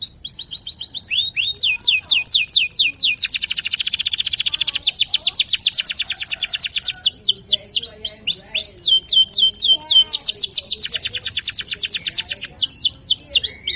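Canary singing a long, continuous song: rapid series of high notes sweeping down in pitch, run together into faster, denser rolls twice before returning to the slower sweeping phrases.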